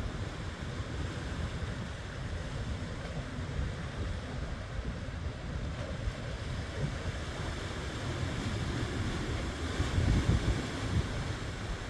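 Ocean surf washing in steadily, with wind buffeting the microphone as a low rumble; the sound swells louder for a moment near the end.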